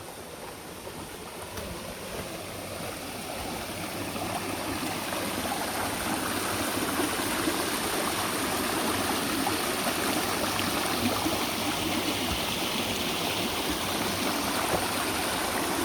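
Stream water rushing and gurgling, growing louder over the first several seconds and then steady.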